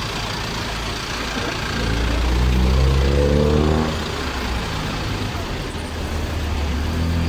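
A motor vehicle's engine revving up, its pitch rising for about two seconds before easing off, over a steady background of street noise. A lower engine rumble comes back near the end.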